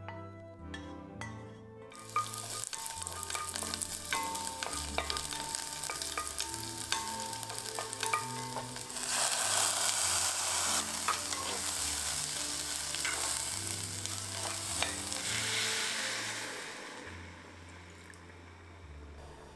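Food sizzling as it fries in oil in a cast-iron pot, with small clicks of a spatula stirring. About nine seconds in, soaked rice is poured into the hot oil and the sizzle gets much louder while the rice is stir-fried. Near the end the sizzle dies down as kelp stock is poured in.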